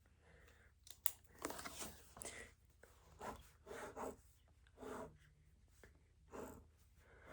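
Paper being handled at a desk: a string of short rustling, tearing strokes, about eight in all, at uneven intervals.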